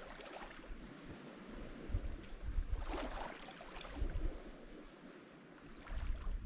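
Lake Michigan waves washing onto the shore: a hiss of water that swells in the middle, ebbs to its quietest near the end and starts to build again just before the close. Low gusts of wind buffet the microphone.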